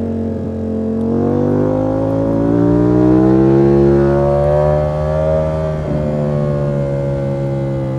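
Ducati Panigale V4 S's 1103 cc V4 engine heard from the bike while riding. The revs climb steadily for about four seconds, break briefly about six seconds in, then ease down a little and carry on steadily.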